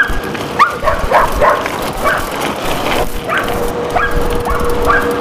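A dog yelping in quick short calls, about two a second. A steady hum comes in about three seconds in.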